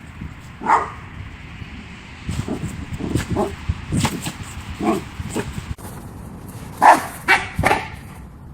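Dog barking: one bark about a second in, a run of shorter, quieter barks in the middle, and three loud barks in quick succession near the end.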